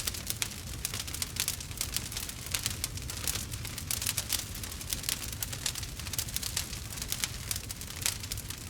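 Wood fire crackling: many irregular sharp snaps and pops, several a second, over a low steady rumble.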